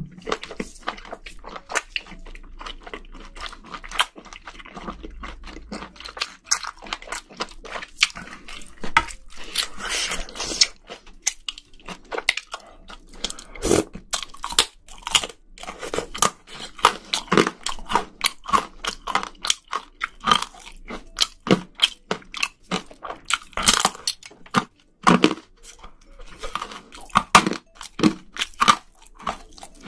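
Close-miked chewing of spicy braised seafood: a steady run of wet mouth clicks, smacks and crunches as the eater works through a mouthful.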